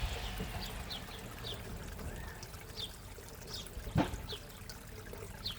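Water trickling and splashing steadily into a backyard koi pond, with short high plinks throughout. A single sharp knock sounds about four seconds in.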